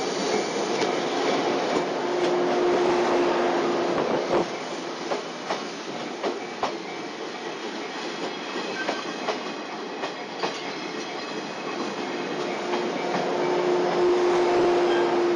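Electric train cars rolling past close by, wheels clicking now and then over rail joints. A steady humming tone rises out of the rumble about two seconds in and again near the end.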